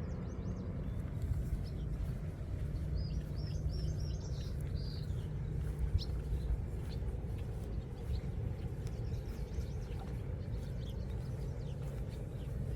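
Small birds chirping, with a quick run of high chirps a few seconds in and scattered single chirps after, over a steady low rumble of outdoor noise.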